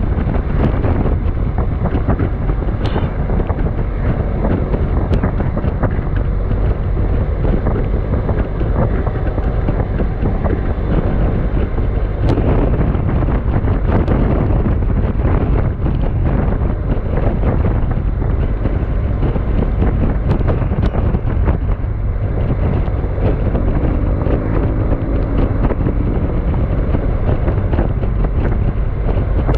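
Storm wind blowing hard and buffeting the microphone in a steady, loud, low rumble.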